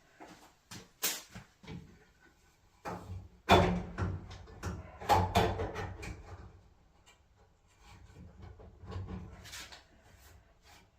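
Clunks, clicks and scraping of dryer housing parts being handled and pushed into place, a run of separate knocks with the loudest about three and a half seconds in.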